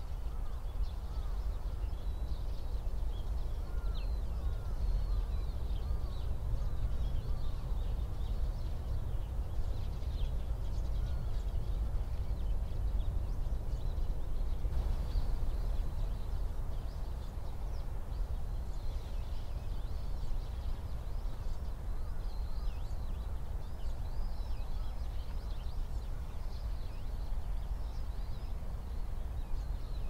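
Many small birds chirping and calling in short, frequent notes over a steady low rumble.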